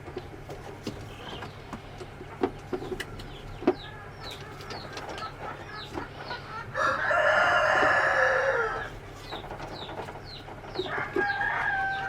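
A rooster crowing once, a loud call of about two seconds starting about seven seconds in, with other chickens clucking and short high chirps repeating around it.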